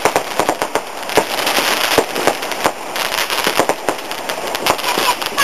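Fireworks going off in quick succession: a rapid string of sharp cracks and bangs over a steady crackle.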